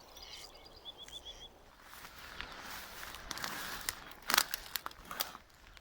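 Footsteps outdoors, rustling and crunching, with a few sharp clicks about four to five seconds in. A bird gives a quick run of short chirps about a second in.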